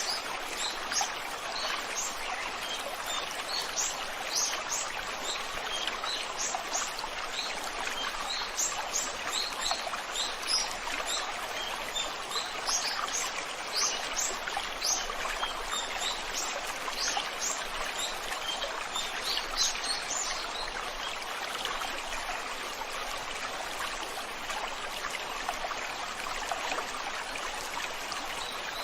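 Water of a river or stream flowing steadily, with many short, high bird chirps over it; the chirps thin out about two-thirds of the way through.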